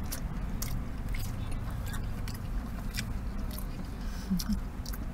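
A person chewing a bite of rotisserie chicken drumstick close to the microphone: irregular wet smacks and clicks of the mouth, over a steady low hum.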